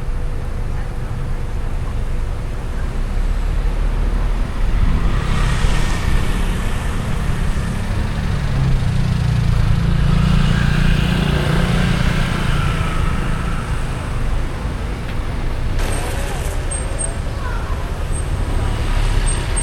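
Road and traffic noise heard from a moving car: a steady low rumble, with a louder vehicle passing close and swelling between about five and fourteen seconds in.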